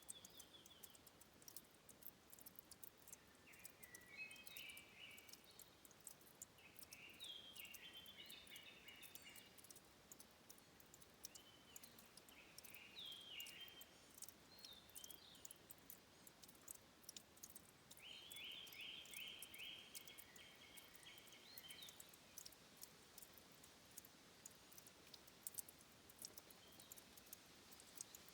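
Faint headwater ambience: a songbird sings short repeated phrases in several bouts, the longest a run of evenly spaced notes about two thirds of the way in. Under it, faint constant ticking and dripping of water at a stream's source.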